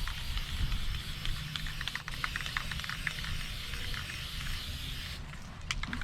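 Aerosol rattle-can spray paint hissing in steady bursts as black paint goes onto a grille, the spray stopping about five seconds in.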